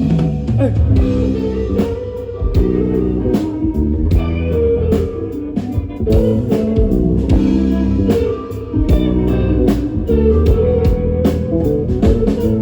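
Live rock band playing an instrumental passage of the song, an electric guitar line over bass and drum kit, with no singing.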